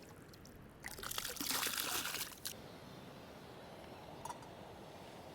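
Water pouring for about a second and a half, stopping abruptly, followed by a steady faint hiss of rain falling on the tent and tarp.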